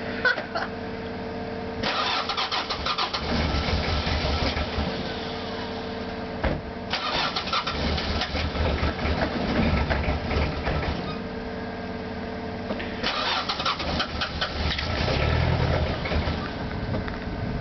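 1983 Ford Ranger's 2.2-litre four-cylinder diesel cranking over in three long attempts with short pauses between them. This is a hard cold start at about 20 °F without a block heater.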